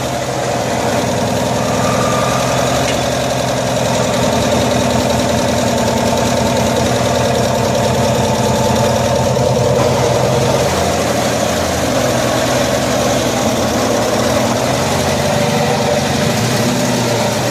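1974 Cushman Truckster's engine running steadily at low speed while the utility vehicle is maneuvered, its note shifting slightly about ten seconds in.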